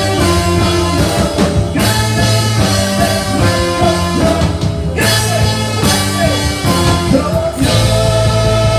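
Live band music with singing: a steady bass line, guitar and a voice holding long wavering notes, with short breaks in the beat about two and five seconds in.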